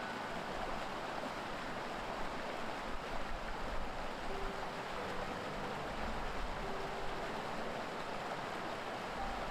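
Mountain stream rushing steadily over rocks, a constant even wash of flowing water.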